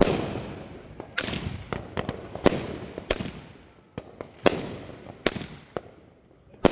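Fireworks going off: about eight sharp bangs at uneven gaps of half a second to a second and a half, each trailing off in a short echo.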